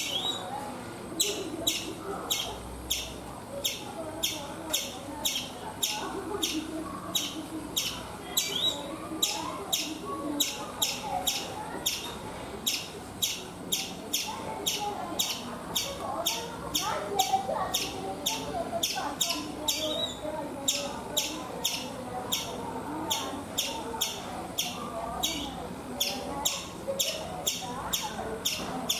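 Indian palm squirrel (the 'chipmunk' of India) calling: a steady, rapid series of sharp high chirps, about two a second, kept up without a break, over a softer jumble of lower background sound.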